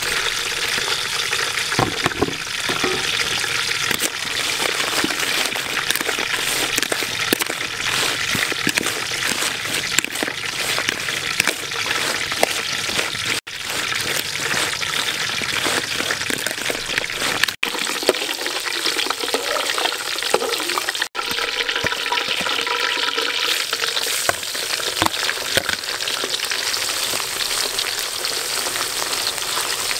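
Food sizzling in a wok of spiders, broth, chilli and greens, with small clicks and scrapes from stirring. The sound cuts off briefly three times.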